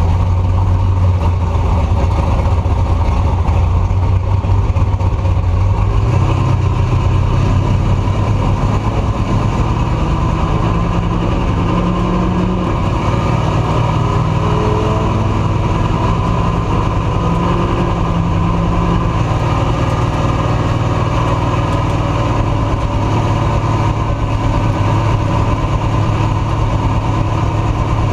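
Truck engine and exhaust running steadily, a deep low drone with a few small shifts in pitch, heard from a camera mounted on the back of the truck.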